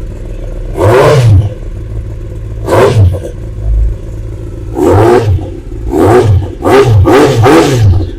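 Kawasaki ZX-10R's inline-four engine through an Akrapovic aftermarket exhaust, running after a cold start: it idles and is blipped about seven times, each rev rising and falling quickly, with a fast run of blips in the second half.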